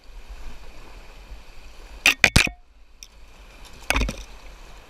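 Canoe paddling: a few short, sharp paddle knocks and splashes, three in quick succession about two seconds in and one more near four seconds, over faint river water noise.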